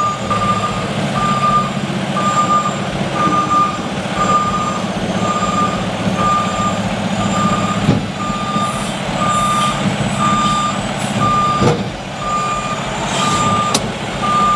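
Roll-off truck's backup alarm beeping steadily about once a second as the truck reverses, over its diesel engine running. A few short knocks come in the second half.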